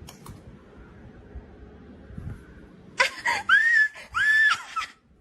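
Loud, high-pitched screaming cries starting about three seconds in: a few short cries, then two long cries that rise and fall, and they stop shortly before the end.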